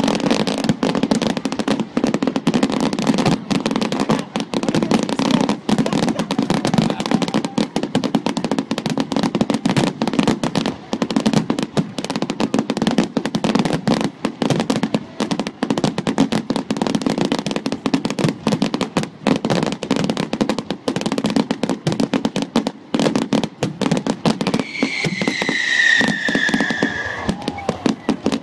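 Fireworks going off in a dense, continuous run of rapid crackling bangs. Near the end a whistling firework sounds one high whistle, falling slightly in pitch for about three seconds.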